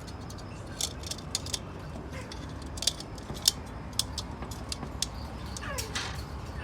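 Small metal parts of a ZF 8HP automatic transmission clicking and tapping against each other as the retaining key for the P3 ring gear is worked into place, in irregular sharp ticks over a steady low hum.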